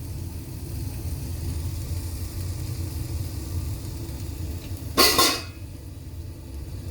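Egg-dipped bread cooking in a pan over a steady low rumble, with a brief loud scrape or clatter about five seconds in.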